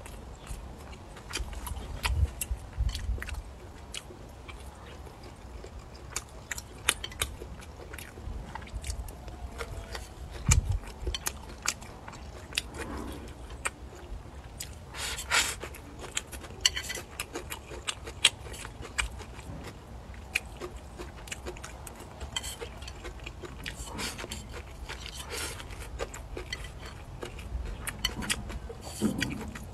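Close-up eating sounds: biting and chewing mouthfuls of rice, Chinese sausage and greens, with many short wet clicks and smacks. A few low thumps come through, the loudest about ten seconds in.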